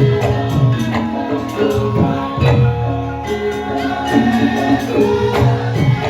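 Javanese gamelan music for a lengger dance: held ringing pitched notes over regular percussion strokes, with singing.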